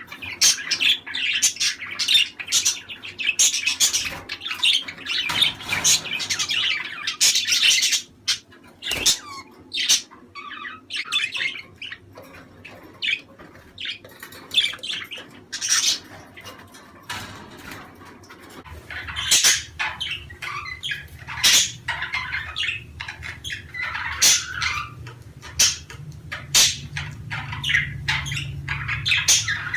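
A group of budgerigars chattering, with rapid chirps and squawks that come thick at first and thin out after about eight seconds. A low steady hum comes in about two-thirds of the way through.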